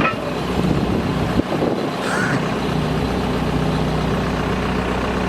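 Heavy farm machine's engine running steadily. A single knock about a second and a half in, and a brief higher tone near two seconds.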